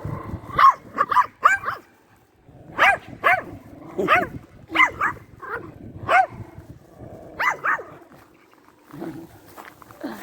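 Dog barking repeatedly: about a dozen short barks in quick groups of two or three, with brief pauses between the groups.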